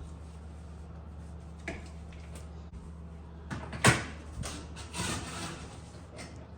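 Clunks and knocks of a refrigerator's freezer door being opened and lifted off its hinges. A sharp knock about four seconds in is the loudest, followed by a short scrape, all over a steady low hum.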